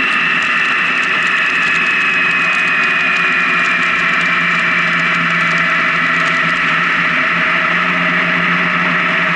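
Honda Gold Wing touring motorcycle running at road speed: steady engine drone mixed with wind and road noise, with a high whine that slowly falls in pitch.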